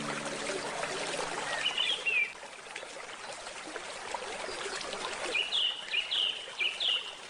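Flowing stream water with birds chirping: a short call about two seconds in, then a run of about five quick repeated chirps near the end. A handpan note dies away at the start.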